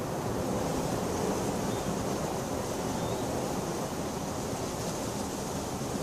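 Steady rain, an even dense hiss heaviest in the low range, with no separate thunderclaps.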